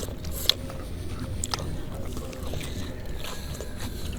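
Low, steady rumble of wind on the microphone, with a few faint short clicks, the clearest about half a second and a second and a half in.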